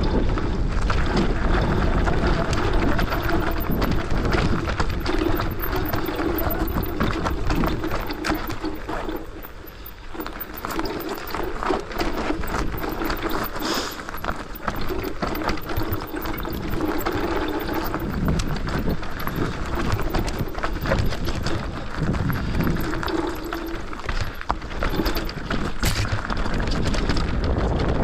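Mountain bike riding down a rough trail: tyres on dirt and rock with constant rattling and clattering from the bike, and a wavering hum that comes and goes. It eases off briefly about ten seconds in.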